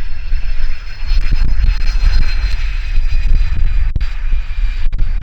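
Cessna 550 Citation II's twin Pratt & Whitney Canada JT15D turbofans running: a steady high turbine whine over a heavy low rumble.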